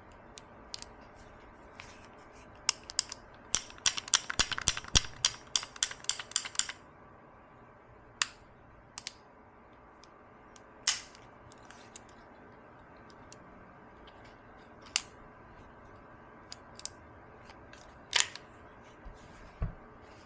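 Sharp metal clicks and taps from a Heritage Rough Rider single-action revolver being handled during disassembly: a quick run of clicks, about four or five a second, for a few seconds, then single clicks and knocks every few seconds.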